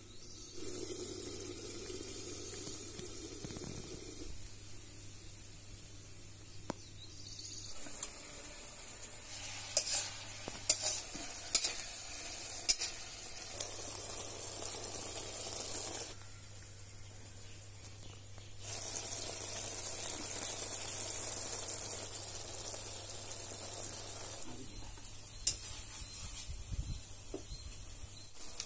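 Food sizzling as it fries in a pan while it is stirred, the spatula scraping and clacking against the pan in a run of sharp knocks about ten to thirteen seconds in. The sizzle drops back for a couple of seconds past the middle, then rises again.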